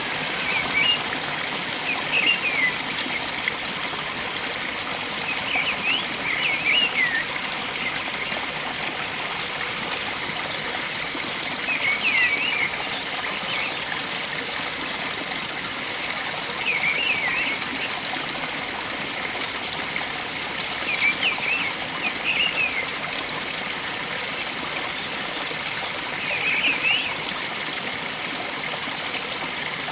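Steady flow of a stream or small waterfall, with a bird giving short chirping calls in brief clusters every few seconds.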